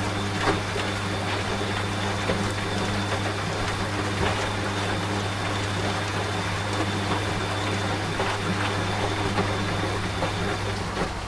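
Washing machine running with a steady low hum, mixed with rain falling in scattered small drops. A faint high whine stops near the end.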